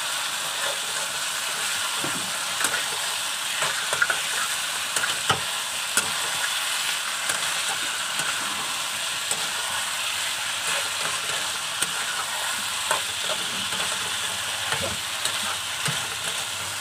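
Chicken pieces, potatoes and spice paste sizzling in hot oil in a kadai while a spatula stirs them, with short knocks and scrapes of the spatula against the pan every second or two. This is the kasha stage: the meat being fried down in the masala before any water goes in.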